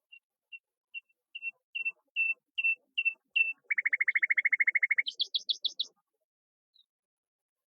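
A songbird singing one phrase: a run of short clear notes that grow louder and come closer together, then a fast rattling trill on a lower pitch and a brief higher trill, ending about six seconds in.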